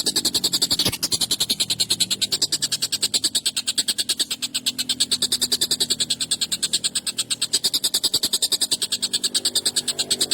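Tengkek buto kingfisher giving a rapid, harsh, high-pitched chattering call, about eight even notes a second, kept up without a break.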